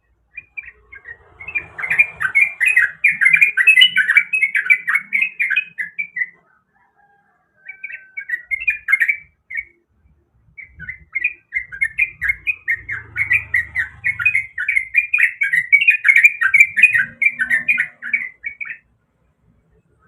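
Yellow-vented bulbul (trucukan) singing: rapid, bubbly chattering runs of notes, one of about six seconds, a short phrase, then a second run of about eight seconds.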